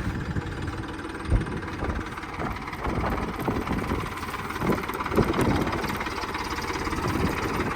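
A vehicle engine idling steadily, with a few short knocks, about a second in and near five seconds.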